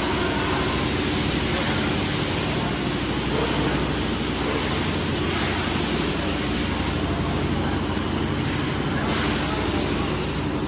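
Fully automatic PET bottle blow-moulding machine running: a steady machine hum with an even hiss, the hiss swelling briefly a few times.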